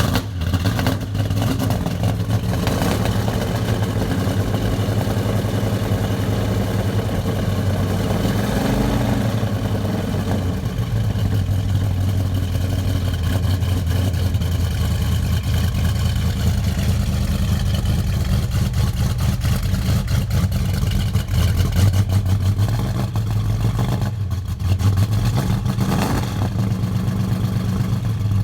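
1973 Ford Mustang Mach 1's V8 running at idle through headers, a custom X-pipe and stainless tailpipe tips, with a brief blip of the throttle about eight seconds in.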